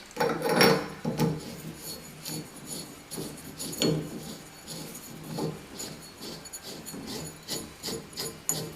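Metal shower-valve trim piece being handled and fitted onto the valve: a run of light, irregular metallic clicks, clinks and scraping.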